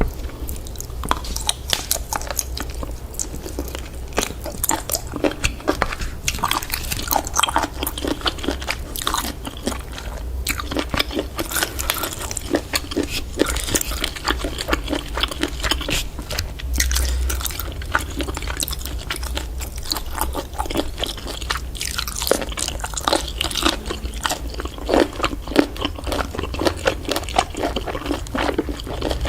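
A person chewing and biting octopus close to the microphone, with many irregular clicks and smacks.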